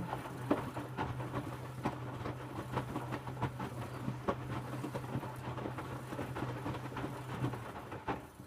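Electrolux W455H commercial washing machine draining: a steady low hum with irregular clicking and knocking over it, the hum stopping near the end as the drain stage finishes.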